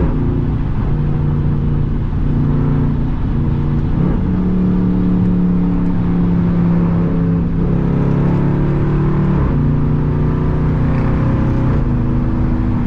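Straight-piped V8 exhaust of an SRT Jeep Grand Cherokee running loud under way, a steady low drone whose pitch steps up about four seconds in and drops back in steps around seven and nine seconds in.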